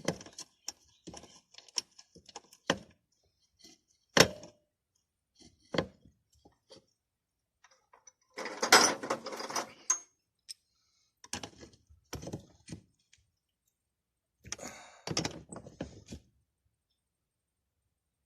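Scattered knocks, clicks and rattles from metal parts and hand tools being handled during the fitting job, with a longer, busier stretch of rattling about nine seconds in.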